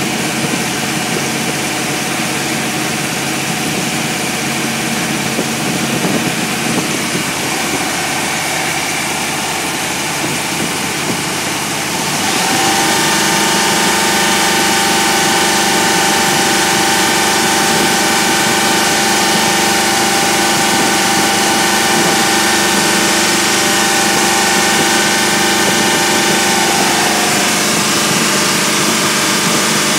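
New Ford 351 V8 running on an engine dyno during its run-in. It runs steadily, then about twelve seconds in it picks up to a higher, louder steady speed, which it holds, easing back slightly near the end.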